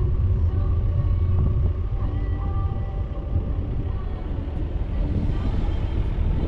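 Vehicle engine and road noise: a steady low rumble with faint humming tones above it, slightly quieter through the middle.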